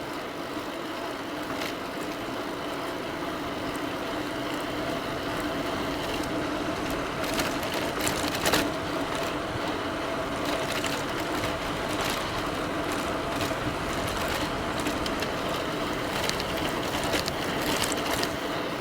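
Bafang BBS02B mid-drive e-bike motor whining steadily under power, over the rush of tyres and wind while riding along a road, with a few light clicks.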